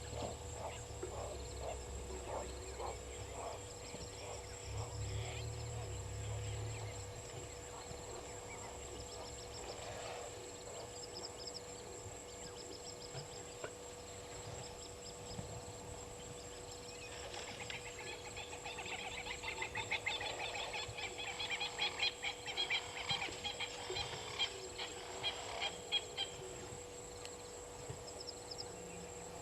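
Outdoor bush ambience at a waterhole: a steady high insect drone, with a long burst of rapid, harsh bird calls starting a little past halfway and lasting about ten seconds. A low rumble, like wind, is there in the first few seconds.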